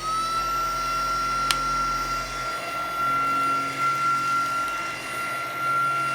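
Tineco cordless stick vacuum running: a nice and quiet, steady high-pitched motor whine over a lower hum, with one sharp click about a second and a half in.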